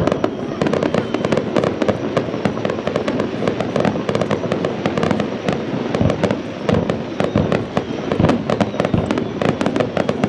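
Aerial fireworks display: a dense, continuous barrage of shell bursts and crackling, many bangs a second overlapping without a break.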